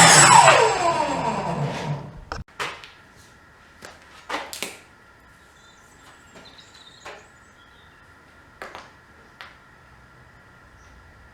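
Table saw motor and blade winding down after being switched off, the pitch falling steeply over about two seconds, followed by a few scattered knocks and clicks.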